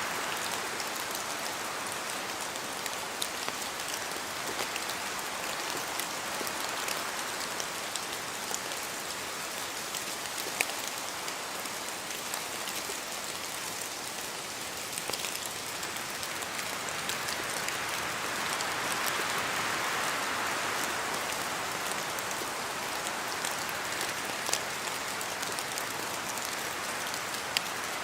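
Steady rain falling through forest trees, with scattered louder drops ticking close by. A gust of wind through the leaves swells up about two-thirds of the way in and dies back.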